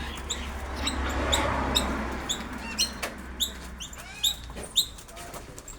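Several small birds giving short, high, falling chirps, about two a second, with a swell of rushing noise about a second in.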